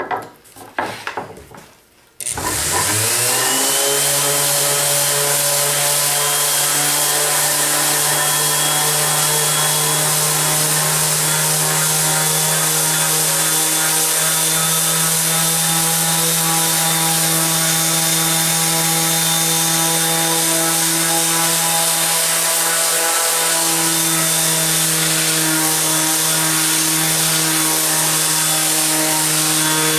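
Bosch orbital palm sander switched on about two seconds in. It spins up with a rising whine, then runs steadily with a hiss of sandpaper on a red oak board.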